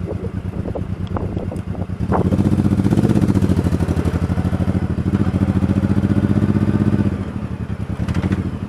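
Motorcycle engine running under way, its pulsing exhaust note growing louder about two seconds in as the rider opens the throttle, then easing back near the end.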